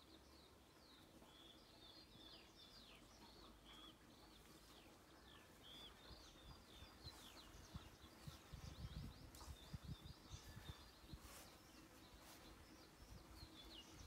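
Small birds chirping and singing faintly: a steady run of short, quick notes that drop in pitch. Low rumbling thumps come in for a few seconds about halfway through.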